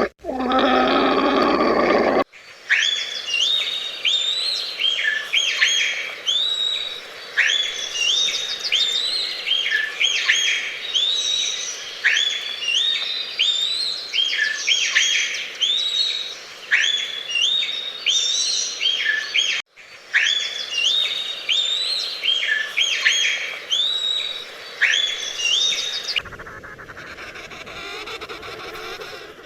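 Birds chirping: many short, sharp chirps in quick succession, with two abrupt cuts. Before the chirping, a low animal call is heard for about the first two seconds.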